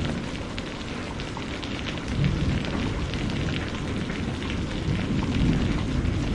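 Steady rain falling, with many separate drops ticking over a constant hiss. Underneath runs a deep rumble that swells briefly about two seconds in.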